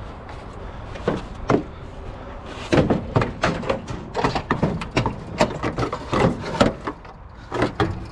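A run of irregular knocks, clunks and clatters, as of hard objects being handled and set down, coming thicker and faster about halfway through.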